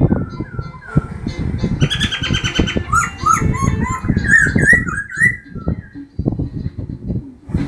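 A very young songbird, which the owner calls a sanwu, chirping and singing from under a cloth cover. It gives short whistled notes that rise and fall, with a fast run of repeated notes about two seconds in, and goes quiet for the last two seconds. Frequent low knocks and rustling run underneath throughout.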